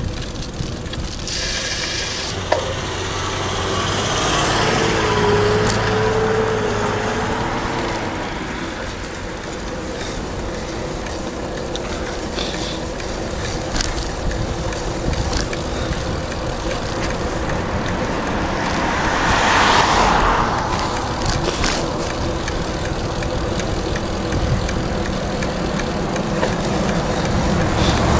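Road traffic: cars passing, one swelling past about five seconds in and another about twenty seconds in, over a steady rush of road noise.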